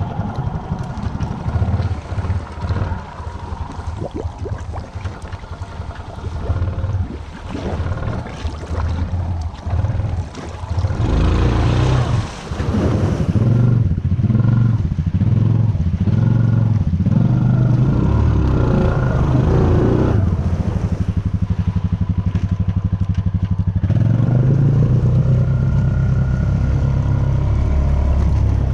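Honda Rancher 420 ATV's single-cylinder engine working through a water-filled mud rut. It is uneven and broken up at first, with a burst of splashing noise about a third of the way in, then holds steady and loud for the second half.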